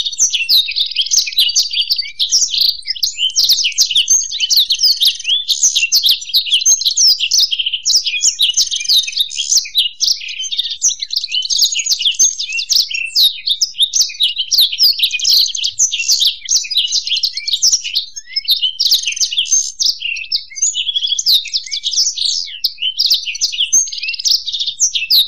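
Black-throated canary (blackthroat) and European goldfinch singing continuously, an unbroken stream of fast twittering trills and chirps with no pauses.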